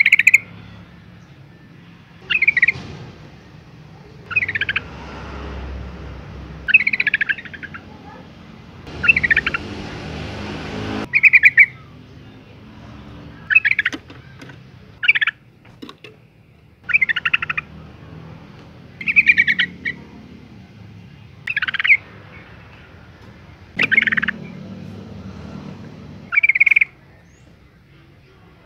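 Yellow-vented bulbul, a female in breeding condition, giving short bubbly chattering calls over and over, about one every two seconds; it is a call that draws males. A brief steady hiss sits under the calls for about two seconds near the middle.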